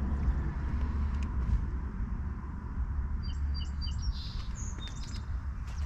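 Small birds chirping a quick run of short, high notes about three to four seconds in, over a steady low rumble of wind and road noise from riding.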